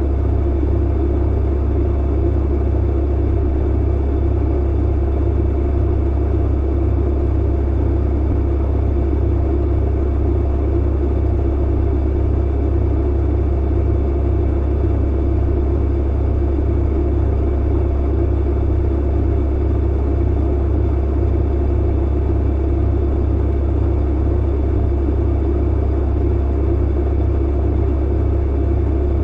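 Clothes dryer running: a steady, deep hum and rumble from the motor and turning drum, with no breaks or knocks.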